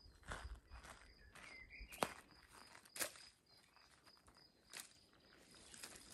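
Faint footsteps and rustling on forest ground, with two sharper knocks about two and three seconds in, over a faint steady high-pitched tone.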